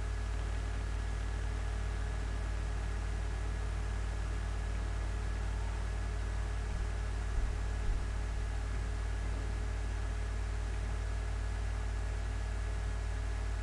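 Steady background hum and hiss with no speech: a constant low hum under an even hiss. Two faint soft knocks come a little past the middle.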